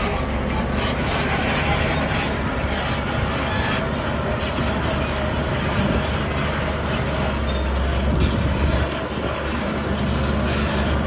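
Heavy diesel construction machinery running steadily at work, a deep engine drone under a broad mechanical din.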